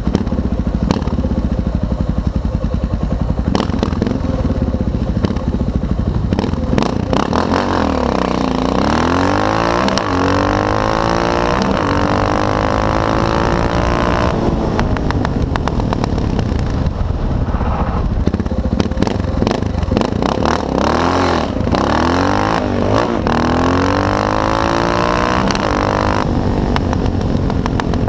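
Motorcycle engines running loudly, revved up and down repeatedly in two spells, about a third of the way in and again past the middle.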